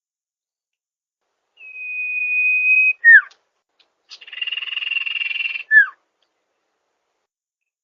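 Song of the sirpu (sirdung), a songbird kept in Indonesia. It gives a long steady high whistle that ends in a sharp falling note, then a buzzy rapid rattle followed by another quick falling note.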